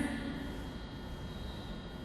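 Railway station platform ambience: a steady low rumble and hum with faint thin high tones, as the reverberant tail of a platform announcement dies away at the start.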